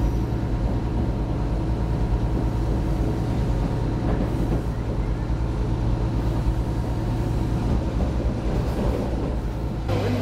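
Loud, steady drone of a diesel multiple-unit train's engine heard from inside the carriage as the train runs along the track. The sound changes abruptly just before the end.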